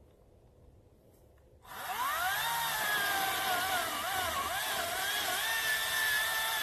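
Greenworks 40-volt DigiPro cordless electric chainsaw switched on about two seconds in with no pull-starting, its motor whine rising quickly in pitch. The pitch then dips and recovers several times as the chain loads up in the cut.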